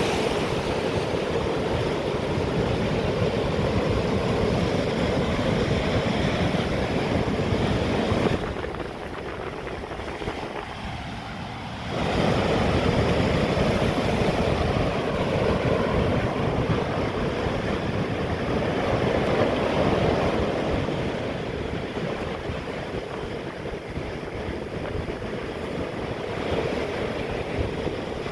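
Atlantic sea waves breaking on rocks: a continuous rushing surf. The sound drops away abruptly about eight seconds in and comes back just as suddenly some four seconds later.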